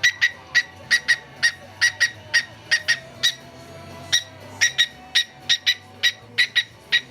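Cockatiel giving short, sharp chirps in a steady beat, about three a second and often in quick pairs, pausing for about a second partway through, over faint background music.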